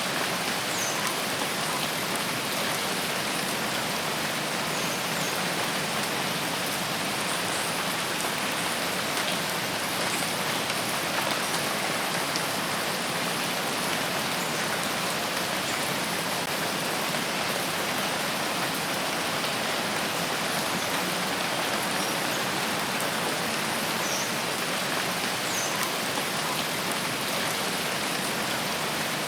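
Steady, even rainfall pattering on foliage and surfaces, with a few faint high chirps scattered through it.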